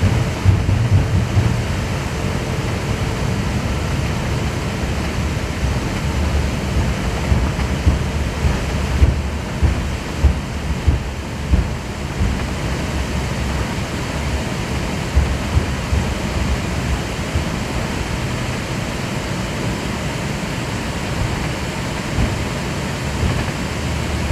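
Airbus A380 airliner noise: a steady deep rumble with uneven low thumps, strongest around the middle.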